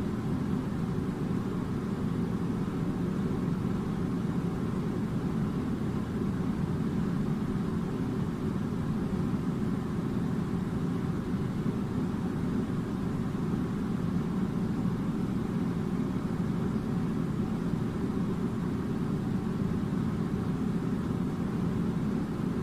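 Air conditioner running: a steady, even low rumble that does not change.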